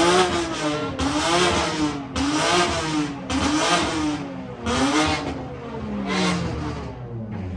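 A car engine revving in quick repeated blips, its pitch climbing and dropping over and over, with a longer falling rev about six seconds in.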